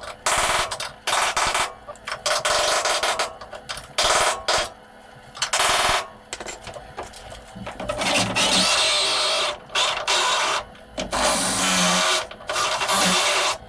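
Power drill boring out spot welds in sheet-steel chassis metal, running in short, repeated bursts with brief pauses between them.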